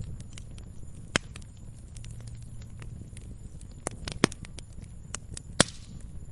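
Wood fire crackling in a fireplace: irregular sharp pops and snaps over a low steady rumble of the flames, with a few louder pops about a second in, around four seconds in and near the end.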